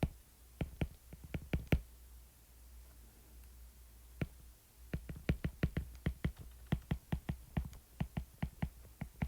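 Keys being pressed, sharp clicks in quick runs of three or four a second, as a calculation is keyed in, over a faint low hum.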